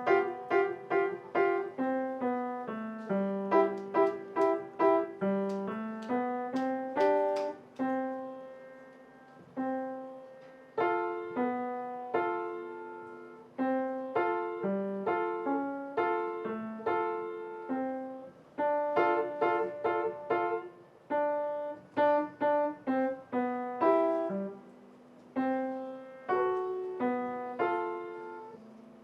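Piano playing a melody over chords, with quick repeated chords in places and held notes left ringing to fade out, about nine seconds in and again around 25 seconds.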